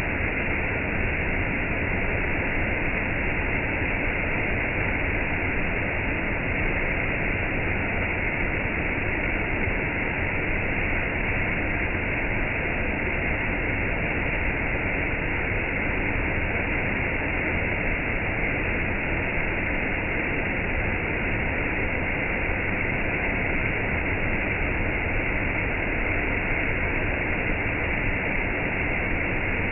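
Steady rushing noise of rain and a waterfall, even throughout, with no single drops or splashes standing out.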